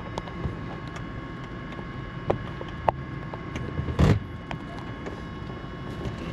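Light-aircraft cockpit before engine start: a steady hiss with a thin electrical whine, a few sharp clicks, and a heavier thump about four seconds in.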